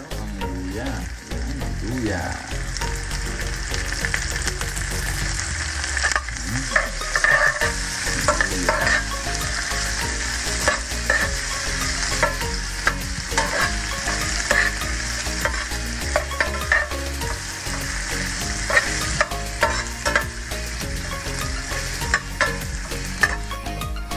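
Pork belly pieces and sliced onions sizzling steadily in hot oil in a frying pan while a spatula stirs them, with frequent short scrapes and taps of the spatula against the pan.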